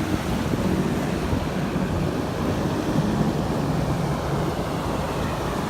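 Wind buffeting the microphone in a steady, dense rush, with a low rumble beneath it.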